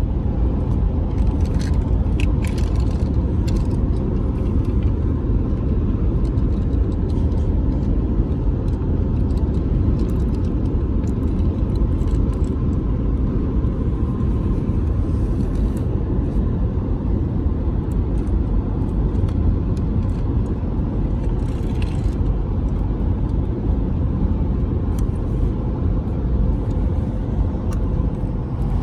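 Steady low rumble of a moving car, heard from inside, with a few faint clicks and rattles.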